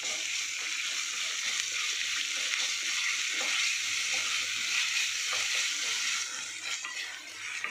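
Chopped onions and ginger-garlic paste sizzling in hot oil in a kadai while a wooden spatula stirs them. The sizzle eases a little about six seconds in.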